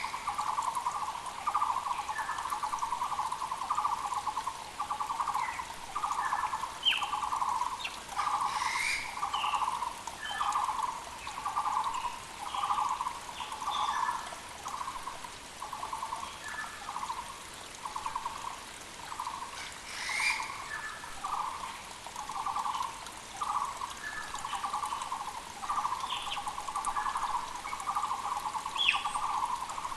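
Muller's barbets calling in a continuous run of rapidly repeated notes at one low pitch, with short chirps of other birds above them and a faint creek rushing underneath.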